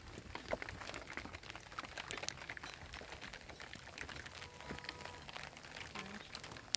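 Rain falling as many small, irregular drops pattering and dripping.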